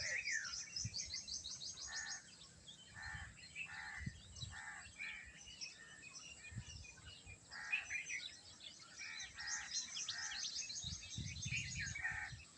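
Several birds calling and chirping together, with repeated short calls and a fast, high trill heard twice, near the start and again toward the end.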